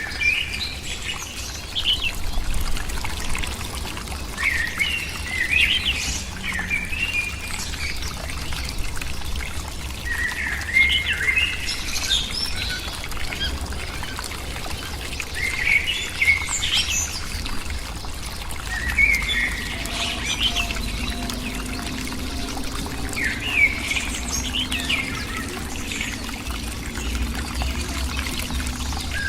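Birds chirping and calling in short, scattered bursts of high notes, over a steady low rumble.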